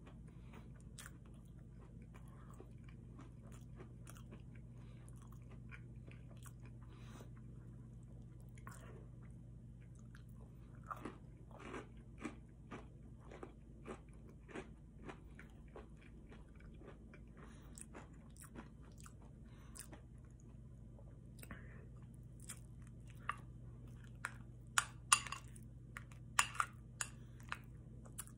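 Close-up chewing and crunching of breaded chicken tenders, with wet mouth noises, over a steady low hum. Sharper clicks and smacks come in quick succession near the end.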